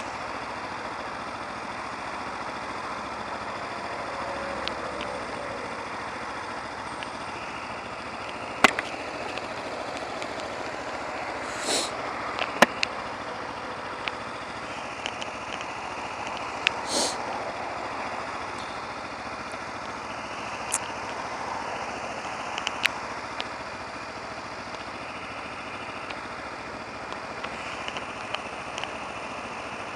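Motorcycle running in traffic, heard from the rider's position with steady wind and road noise on the microphone. A few sharp clicks and two brief hisses break through.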